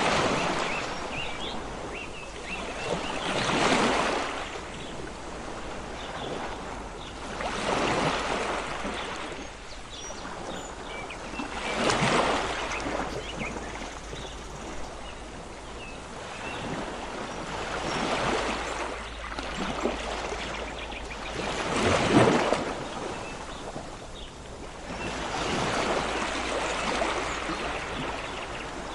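Ocean waves washing in on the shore, each surge swelling and falling back about every four seconds.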